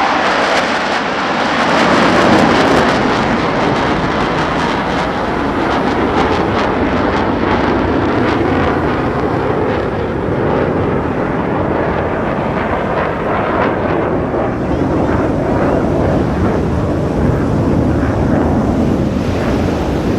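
Jet noise from F-16 Fighting Falcon fighter jets flying past, loud and continuous, starting higher and sinking to a lower rumble as they move away, with a crackling edge through the middle.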